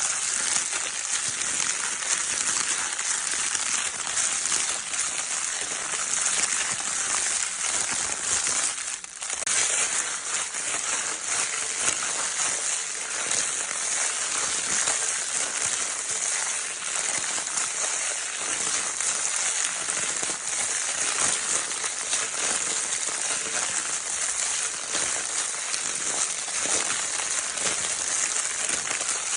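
Baby crinkle paper toy being crinkled over and over: a dense, steady, crackling rustle, with a brief lull about nine seconds in.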